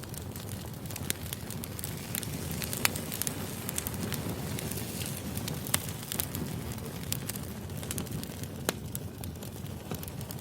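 Burning firewood: a steady low rush of flames with frequent sharp crackles and pops, a few louder pops standing out, about three seconds in and again near six and nine seconds.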